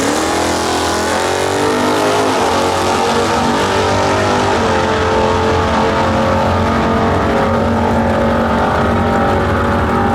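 Muscle car engine at full throttle on a drag strip run: the pitch climbs over the first two seconds, then holds high and steady.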